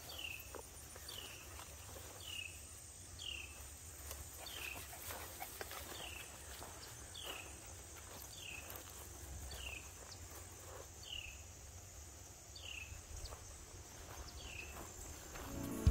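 A bird repeating a short falling chirp about once a second, over a steady high-pitched insect drone, with faint rustling and knocks.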